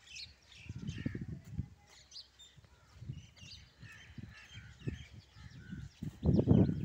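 Small birds chirping in the background, with several low muffled rumbles from the microphone, the loudest near the end.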